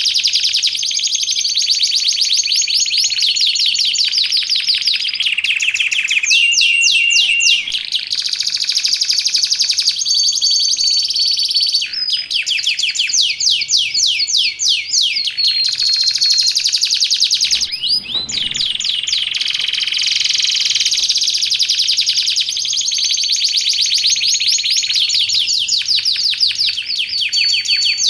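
Domestic canary singing a long, loud song of fast rolling trills, broken by short held whistle notes.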